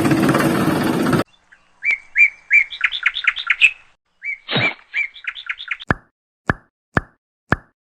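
A burst of hiss that cuts off abruptly about a second in, then bird-like chirping, then from about three-quarters of the way through an even series of plops, each falling sharply in pitch, about two a second.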